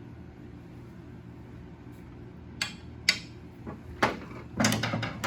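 Metal tools clinking and clattering on a workbench: a few sharp knocks about two and a half seconds in, then a busier clatter near the end.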